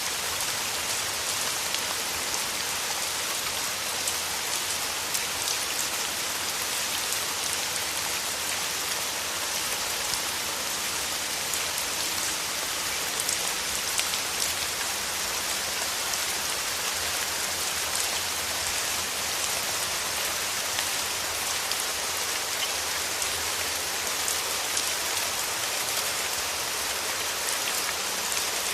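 Steady rain falling on a surface, a dense even hiss with fine patter of individual drops and no thunder.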